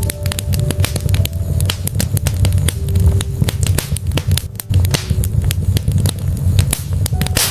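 Wood fire burning in a fireplace: logs crackling with many quick pops over a steady low rumble of the flames.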